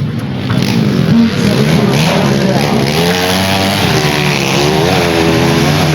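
Motorcycle engines running and being revved, the pitch rising and falling several times from about three seconds in.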